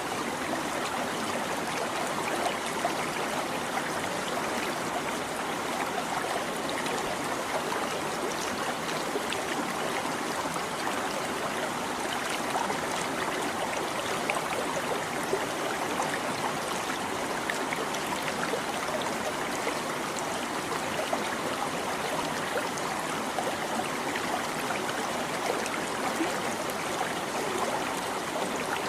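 A small stream babbling: a steady rush of flowing water with fine trickling.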